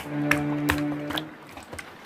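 Children's song music with a held low note that comes and goes, and about four sharp clicks and pops from slime being handled.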